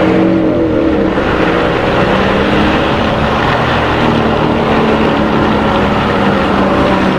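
Motorcycle engine running at a steady cruise, its pitch shifting slightly at first and then holding, over a steady hiss of rain and wet road.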